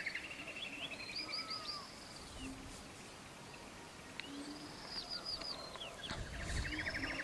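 Several songbirds singing faintly: a fast buzzy trill alongside rising and falling chirps and whistles, coming and going.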